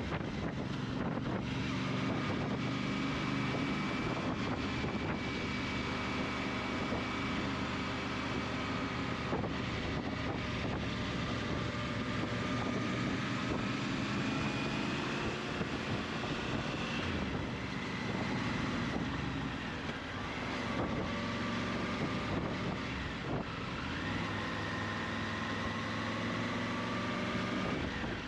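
Motorcycle engine running while riding along, its pitch slowly rising and falling with speed, under steady wind rush on the microphone.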